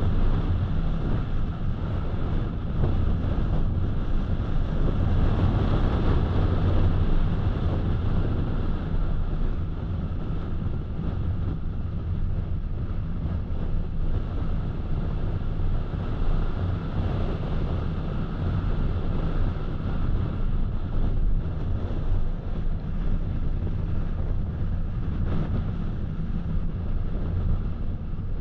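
Car driving at speed: a steady wash of tyre and road noise over a low engine hum, with some wind.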